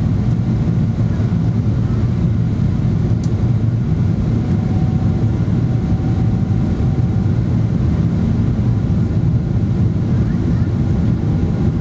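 Steady, loud low rumble inside the passenger cabin of a Boeing 777-300ER, the noise of its GE90 engines and the airflow around the fuselage.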